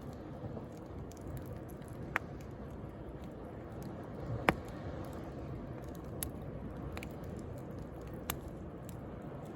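Wood bonfire crackling, with a handful of sharp pops, the loudest about halfway through, over a steady wash of sea waves.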